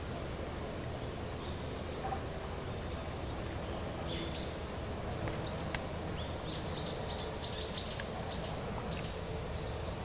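A small bird calling: a string of short, high chirps, each rising and falling in pitch, starting about four seconds in and coming quicker near the end, over a steady low outdoor rumble.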